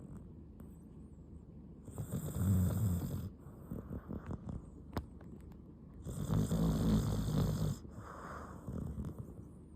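Mixed-breed dog snoring in its sleep: two long low snores about four seconds apart, with quieter breathing between them.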